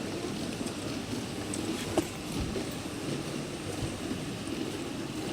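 Large-scale model train running, its wheels clacking over the rail joints, with one sharper click about two seconds in.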